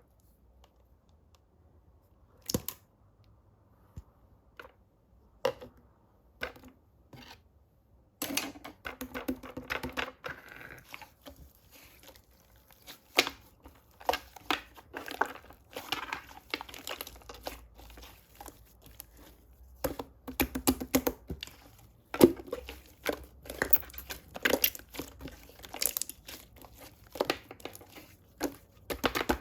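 Close-up crinkling, rustling and tearing of handled craft material, a few separate taps and crackles at first, then dense, continuous crinkling from about eight seconds in.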